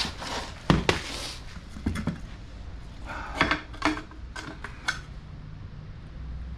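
Metal tools and parts clanking and knocking while a rear differential is taken apart: a handful of sharp, irregular clinks over about five seconds, the loudest about a second in.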